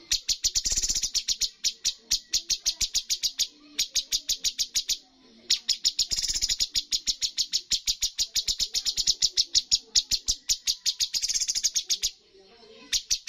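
A cucak cungkok songbird singing rapid-fire runs of sharp, evenly repeated notes, about ten a second, in long bursts broken by brief pauses. This is the 'tembakan' shooting style that bird keepers prize.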